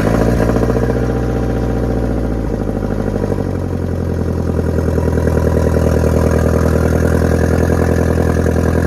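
2001 Audi 1.8T turbocharged four-cylinder engine running just after its first start in two years. The revs fall over the first few seconds and settle into a steady idle.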